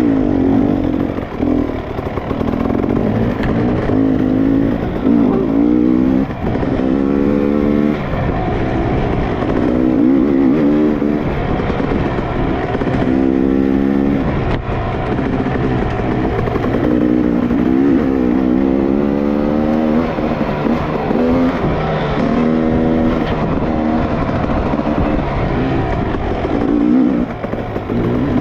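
Dirt bike engines running hard, their pitch climbing and dropping again and again as the throttle is opened and backed off, over a steady rushing noise.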